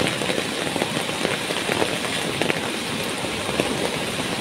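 Heavy rain falling on wet ground: a steady hiss with many close drops pattering.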